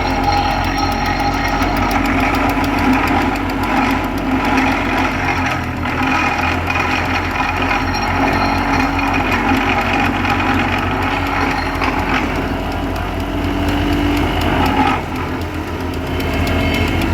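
A heavy engine running steadily at close range, with a continuous low pulsing hum. It dips briefly about 15 seconds in, then carries on.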